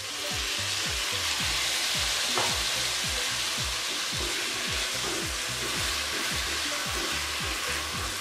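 Spiced chicken mince sizzling in a wok just after a little water is splashed in, a steady hiss as the water cooks off, while a silicone spatula stirs and scrapes it through.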